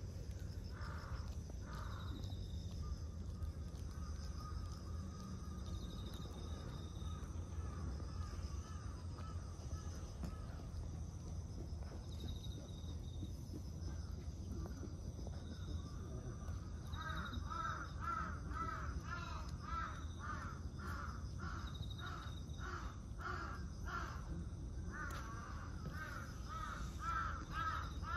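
Birds calling repeatedly, over a steady low background rumble. The calls become a dense run of quick repeated notes in the second half.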